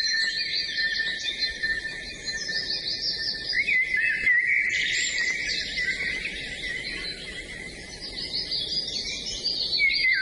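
Several songbirds singing at once: a dense chorus of quick overlapping chirps and trills, some lower and some higher-pitched.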